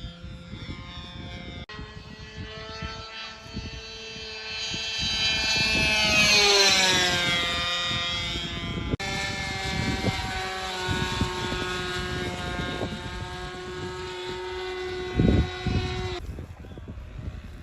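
The motor and propeller of a remote-control model airplane whine in flight. The sound swells to its loudest and falls in pitch as the plane passes, about six to seven seconds in, and the pitch jumps abruptly twice. A couple of thumps come near the end.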